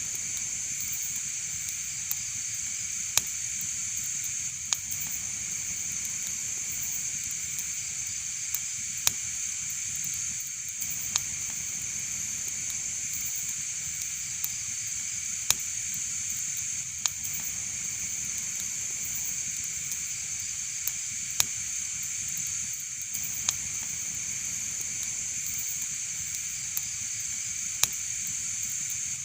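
Wood fire burning in a fireplace: sharp crackling pops every second or two over a steady hiss.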